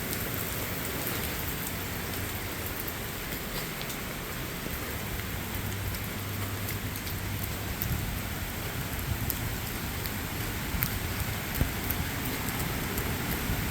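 Steady hiss of heavy rain mixed with the rush of storm floodwater, with faint scattered drop ticks.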